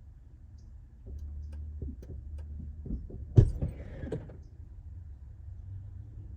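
Several light clicks and knocks, then one sharp, loud knock about three and a half seconds in with a brief rattle after it, over a low rumble: parts or tools being handled during work on a car.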